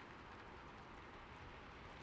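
Steady rain on a roof: a soft, even hiss with faint scattered ticks of single drops.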